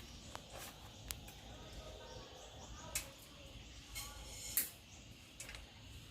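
A handful of sharp clicks and knocks, scattered and irregular, the loudest about four and a half seconds in, with faint short chirping sounds underneath.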